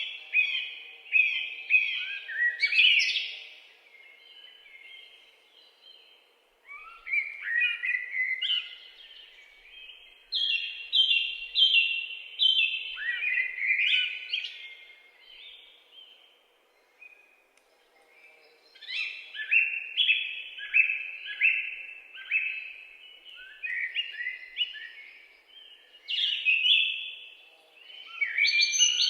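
Woodland songbird song: bouts of quick, chirped notes lasting a few seconds each, repeated after short pauses.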